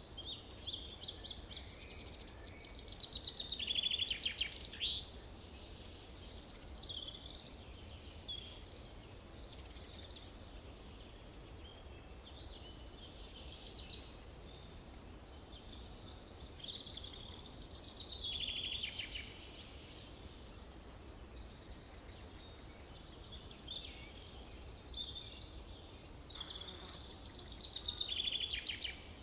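Forest ambience with several songbirds singing and calling throughout, overlapping chirps and fast trills that swell loudest a few seconds in, about two thirds of the way through, and near the end, over a steady low rumble.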